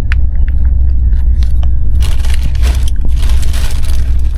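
Passenger train carriage noise: a heavy, steady low rumble from the moving train, with scattered clicks and a stretch of hiss from about two seconds in to nearly four.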